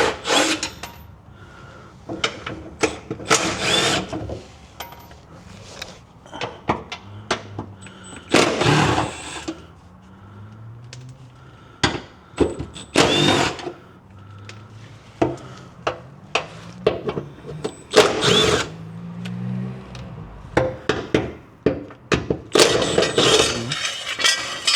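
Small hand ratchet with a 13 mm socket loosening bolts on a car's exhaust hanger and brace. It clicks in short bursts of rapid ratcheting, about half a dozen times, with scattered metal knocks between them.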